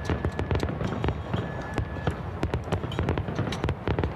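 Fireworks salute going off: a rapid, irregular string of bangs and crackles from bursting pyrotechnic shells, several a second, over a low rumble.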